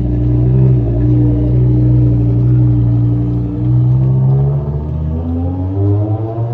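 BMW M5 E60's 5.0-litre V10 idling after a cold start through a straight-piped Eisenmann Race exhaust: a loud, steady, deep drone that wavers slightly and rises a little near the end.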